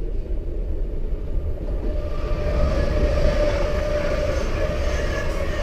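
Passenger train running on the rails, heard from inside the carriage: a steady low rumble and hiss that grows louder about two seconds in, with a faint steady whine joining it.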